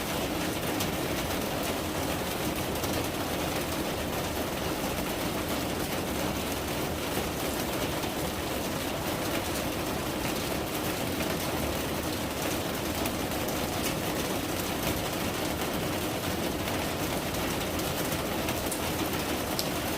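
Steady rain falling: an even hiss with scattered sharp ticks of drops.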